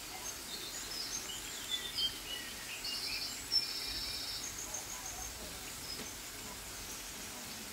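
Faint bird chirps and short trills over a steady background hiss. The chirps are busiest between about one and five seconds in, with two quick rattling trills around three to four and a half seconds.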